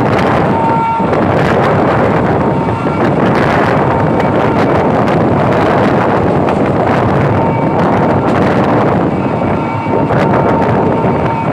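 Passenger train running at speed, heard from on board, with a loud steady rush of wind on the microphone and a faint thin whine at times.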